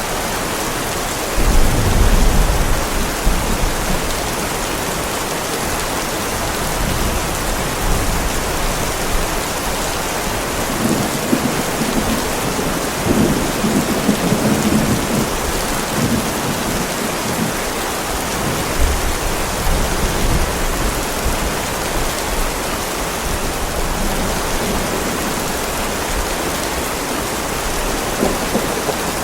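Heavy rain falling steadily on a driveway, with low rolling thunder rumbling in about a second and a half in and again near the middle.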